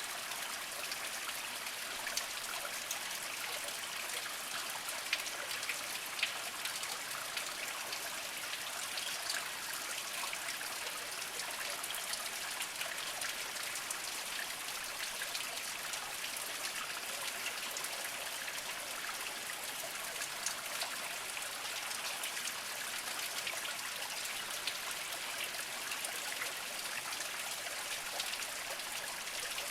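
Small mountain spring trickling slowly over mossy rocks: a steady gentle water sound, dotted with small drips and splashes.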